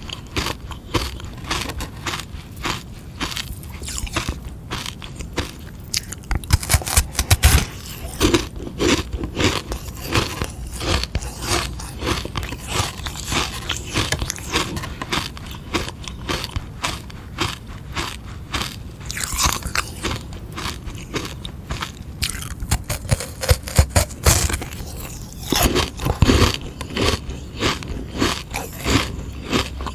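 Frozen sugar-water ice lolly being bitten and chewed: a rapid, irregular run of sharp icy crunches and scraping bites.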